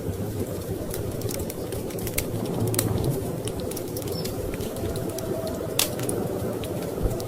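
Wood fire crackling in a fireplace, with irregular sharp pops, the loudest about three-quarters of the way through, over a steady low rumble of storm wind.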